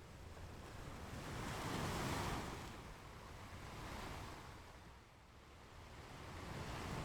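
Ocean surf washing onto a beach, a wave swelling loudest about two seconds in, easing away, then another building near the end.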